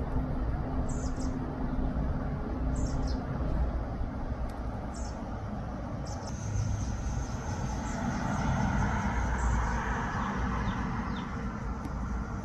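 A bird chirping outside, short high falling calls about every two seconds, joined about halfway through by a thin steady high tone. Under it all runs a steady low rumble.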